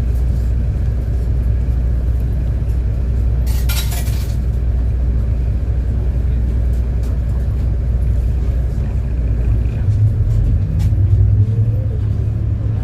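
City bus engine running with a steady low rumble, heard from inside the bus, with a short hiss about three and a half seconds in. About ten seconds in the engine note rises and gets a little louder.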